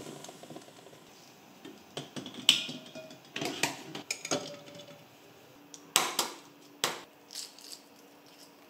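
A series of sharp clinks and taps as hard-boiled eggs are lowered with a metal sieve into a glass bowl of cold water, followed by knocks and crackles of eggshell being cracked and peeled. The loudest clink comes about two and a half seconds in.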